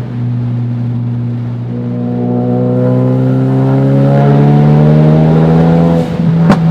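Tuned Ford Focus RS's turbocharged 2.3-litre four-cylinder pulling hard, its pitch rising steadily. Near the end the revs drop and there are a few sharp, loud exhaust cracks, the tune's pops and bangs.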